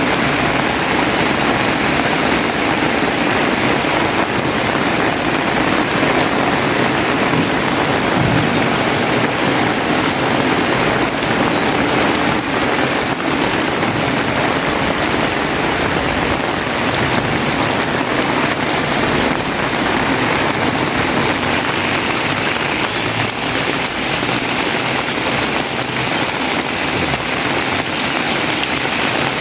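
Heavy rain pouring down steadily, drops pattering densely on surfaces and running water.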